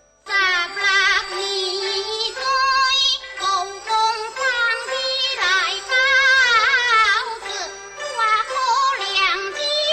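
Teochew opera singing: a high voice sings a long, ornamented line with wavering, gliding pitch over instrumental accompaniment, starting just after a brief pause.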